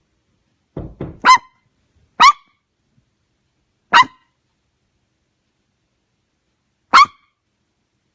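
A dog barking at knocking: two soft knocks a little under a second in, then four loud, sharp single barks, each spaced farther apart than the last.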